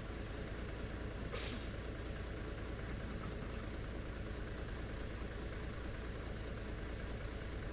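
Diesel truck engine running steadily with a low rumble. A brief hiss comes about a second and a half in.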